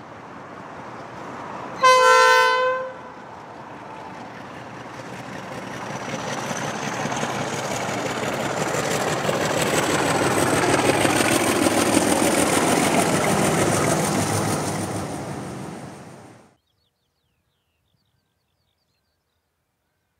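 A train horn sounds one short blast, then a passing train builds steadily louder with a high whine that rises slowly in pitch, before cutting off suddenly a few seconds before the end, leaving silence.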